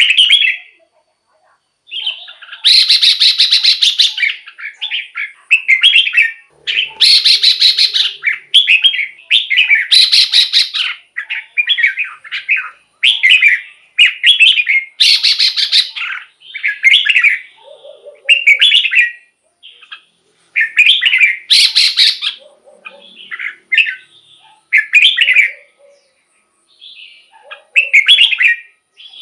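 Red-whiskered bulbul singing: loud, short warbled phrases, one after another, with brief pauses between them. Several phrases are harsher and more strident.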